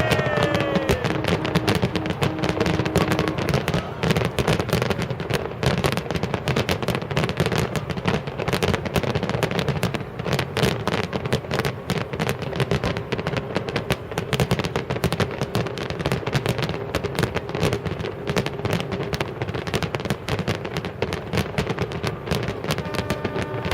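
Fireworks display in full swing: a dense, unbroken barrage of crackling and bangs from many shells bursting in rapid succession.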